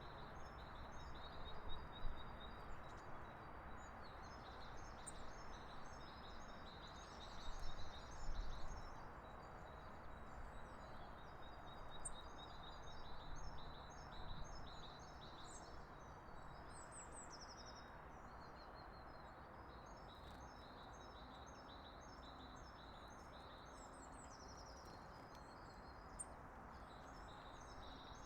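Several small birds chirping and trilling together in quick, high notes, over a steady background hiss, with louder bursts of song a few times.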